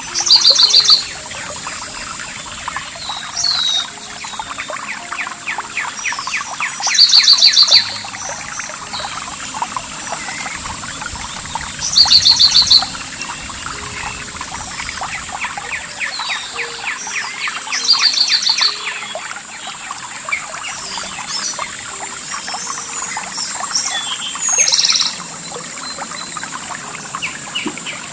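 Songbirds over a trickling stream: one bird repeats a short, loud, rapid trilled phrase five times, roughly every six seconds, while other birds chirp softly in between. A steady high-pitched whine runs under it all.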